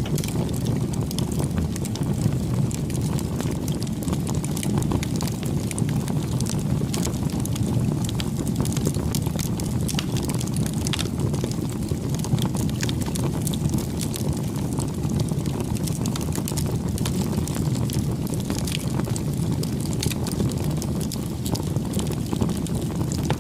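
Wood fire burning, with a steady low rush of flame and many small irregular crackles and pops from the burning wood.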